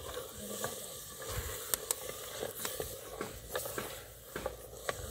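Liver, onions and green pepper frying in hot oil in a pot, with a steady sizzle, while a wooden spoon stirs and knocks against the pot in irregular clicks.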